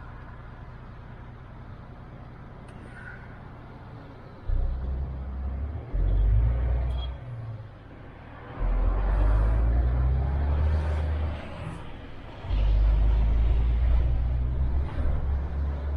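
MAN TGX truck's diesel engine running low and steady, then pulling hard in four surges of louder rumble about four and a half, six, nine and twelve and a half seconds in, dropping back between them.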